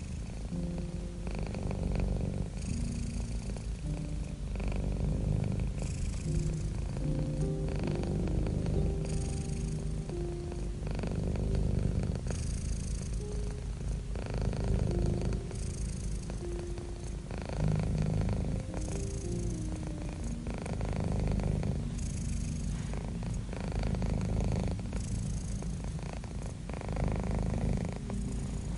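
Domestic cat purring close up: a continuous low, rapid rumble that swells with each breath, about every three seconds.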